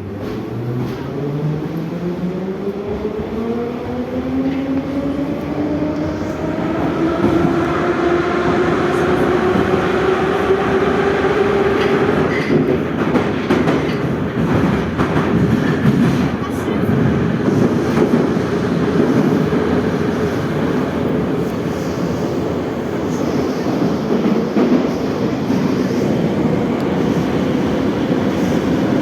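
81-717/714 metro train pulling away from a station: the traction motors' whine climbs steadily in pitch for about twelve seconds as it accelerates, then levels off at running speed. Under it is a steady rumble of wheels on rail, with a run of clicks over rail joints a little after the whine levels off.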